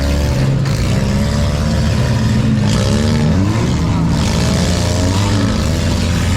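Several four-cylinder demolition derby cars' engines running and revving, their pitch rising and falling as they accelerate, over a constant loud noise.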